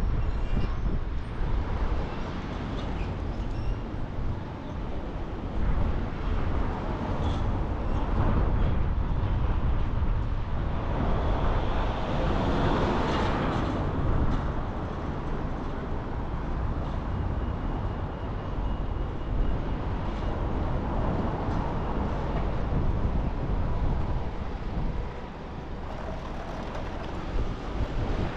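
Car driving on the road: a steady rumble of engine and tyre noise with wind, swelling louder around the middle and then settling again.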